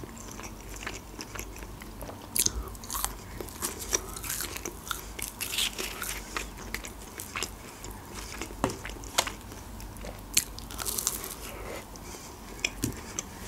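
Close-miked ASMR eating of McDonald's chicken nuggets: bites, crisp crunches and wet mouth clicks at irregular intervals, starting about two seconds in.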